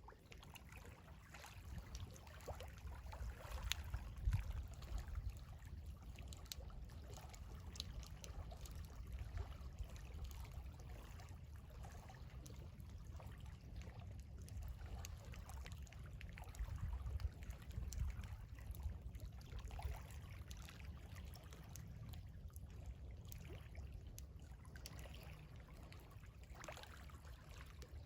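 Gentle ocean waves washing in, a steady low rumble with a fine trickling fizz, swelling slightly a few seconds in and again past halfway.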